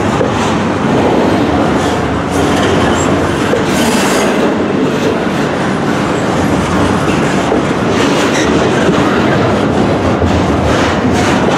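Double-stack intermodal well cars of a long freight train rolling past at speed, their steel wheels rumbling steadily and clacking on the rails.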